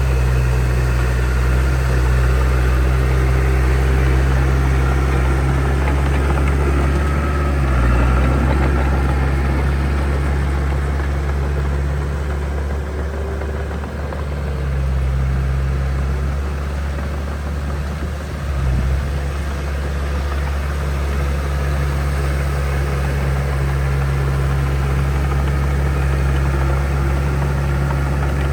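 Heavy diesel construction machine engine running steadily at a low, even pitch, with brief dips about 8 and 18 seconds in.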